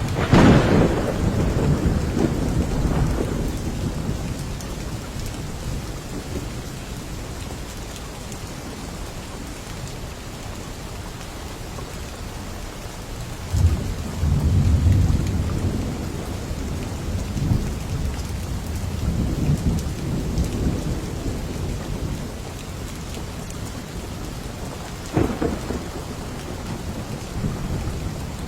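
Steady rain with thunder: a sharp thunderclap right at the start that rumbles away over a few seconds, a long low rolling rumble about halfway through, and another crack of thunder near the end.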